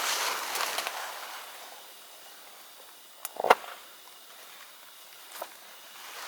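Brief rustling, then a light click followed at once by a sharp, loud knock with a short ring, and a fainter click near the end.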